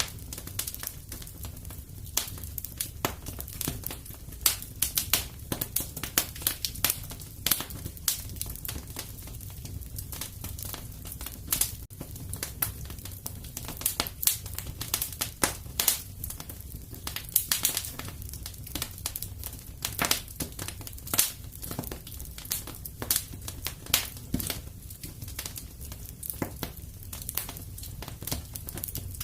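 Wood fire crackling in a fireplace: a steady low rumble of the flames with many irregular sharp pops and snaps.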